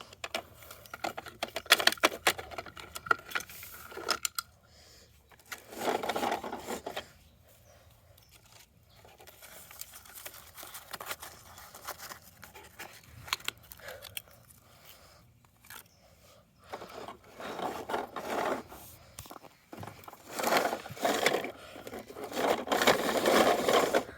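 A plastic toy garbage truck being handled and played with: irregular clicks, scrapes and rattles of small plastic parts, coming in bursts with quieter gaps between.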